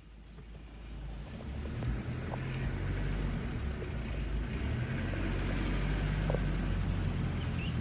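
Steady low rumble of a moving vehicle, fading in over the first couple of seconds, with a few faint clicks.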